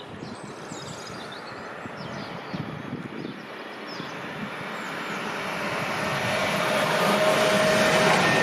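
Main-line train approaching, its rumble growing steadily louder, with a steady tone coming in near the end.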